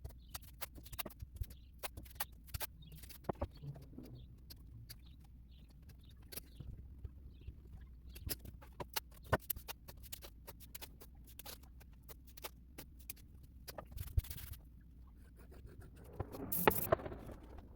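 Hands mounting a workpiece with blue painter's tape and CA glue: scattered light taps, clicks and rustles over a low hum, with a louder noisy rustle near the end.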